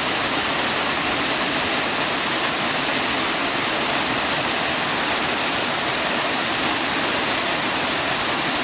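Small waterfall: water falling over layered rock ledges and splashing onto the rocks below, a steady rushing hiss.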